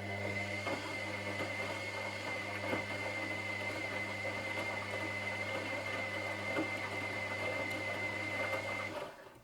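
Washing machine motor turning the drum in a wash cycle: a steady low hum and a high whine over rattling and tumbling laundry. It stops near the end.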